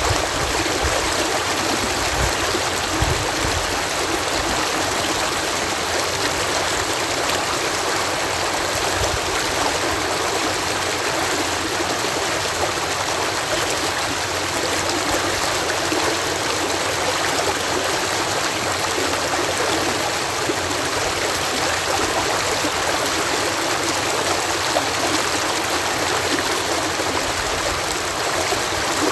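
Water cascading through a canal lock: a steady, even rush of falling water.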